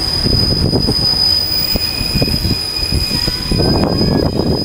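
Railway carriage wheels running on the rails: a heavy low rumble with irregular knocks, a steady high whine, and a few brief squeals from the wheels.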